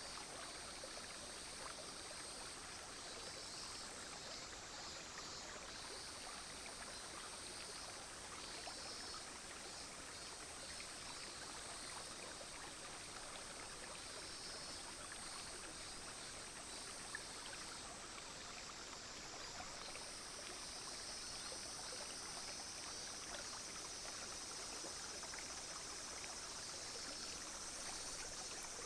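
A small, clear stream flowing steadily. Over it, cicadas and other insects keep up a continuous high buzz, with bursts of pulsing chirps now and then.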